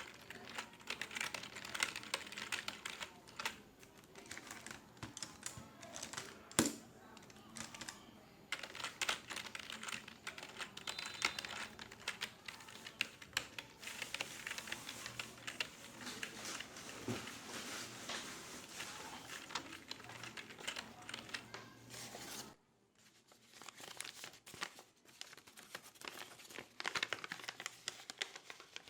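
Computer keyboard typing: a dense, rapid patter of key clicks with now and then a louder single click. It drops out suddenly about two thirds of the way through, then the clicking picks up again.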